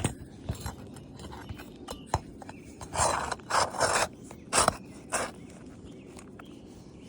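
Asphalt shingles being handled: a few short scraping, rustling bursts and light clicks as the shingles are gently lifted to check for missing nails.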